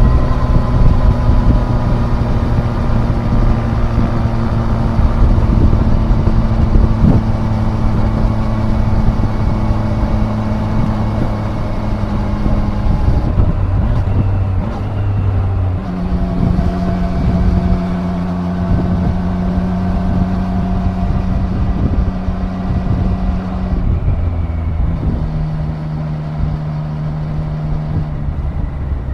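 Triumph Daytona 660 inline-triple engine running under way in gear, mixed with wind rush. The note holds steady for the first half, breaks up about 13 seconds in, then settles at a lower steady pitch and steps down once more near the end, while the wind rush thins.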